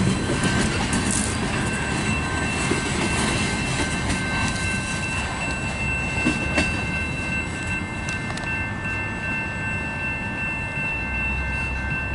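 Freight train boxcars rolling by, wheels clacking over the rail with a steady high wheel squeal, growing a little fainter as the end of the train moves away.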